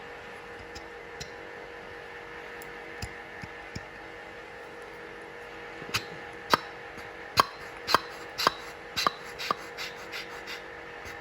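Metal parts of a Tecalemit air grease gun clicking and knocking as it is handled and reassembled. A few faint ticks come first, then a quick run of about a dozen sharp clicks in the second half, over a steady background hum.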